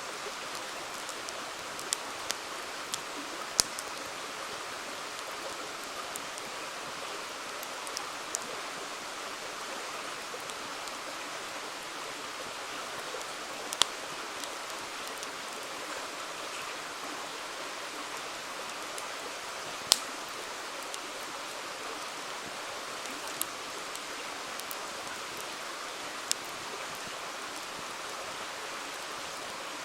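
Steady rushing of a river, with a wood campfire giving scattered sharp pops and crackles every few seconds over it.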